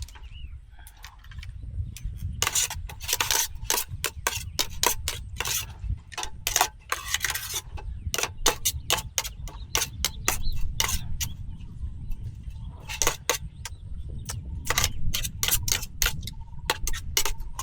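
Rapid, irregular clicks and clatters of hard objects being handled, busiest in two spells, over a steady low rumble. A single short chirp right at the start.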